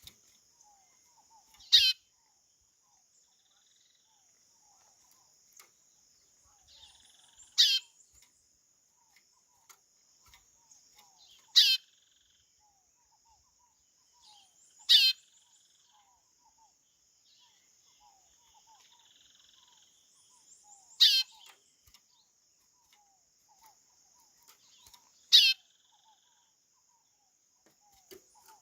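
White-bellied seedeater (chorão) calling: six short, loud, falling whistled notes, spaced several seconds apart, over a faint steady high hiss.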